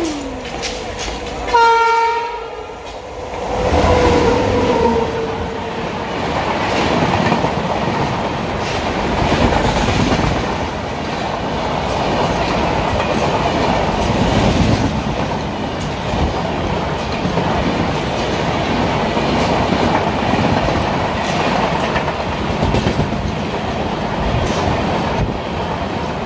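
Indian Railways express train: the locomotive horn sounds twice in the first few seconds, a short blast and then a longer one, then the passenger coaches run past at speed, a loud steady rumble with rhythmic clickety-clack of wheels over rail joints.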